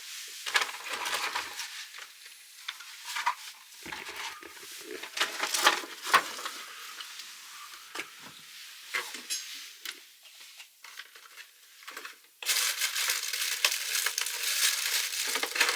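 Irregular crinkling, rustling and light knocks of fire-lighting materials being handled at a wood-burning masonry stove. About twelve seconds in, this turns suddenly into a louder, continuous rustle.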